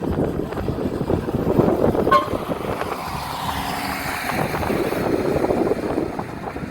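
Road vehicle noise with wind buffeting the microphone, and a brief horn toot about two seconds in.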